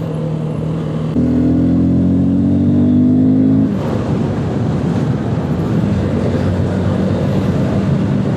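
Motorcycle engine heard from the rider's seat, the engine note jumping up about a second in and climbing steadily as the bike accelerates. About four seconds in, the engine note sinks under a steady rush of wind and road noise.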